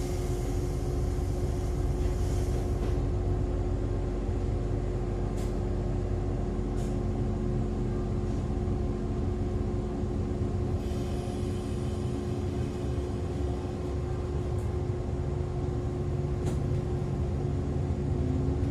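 Interior of an Echizen Railway MC6101 electric railcar at a stop: a steady hum of its on-board equipment over a low rumble, with a hiss of air at the start. A tone begins to rise right at the end.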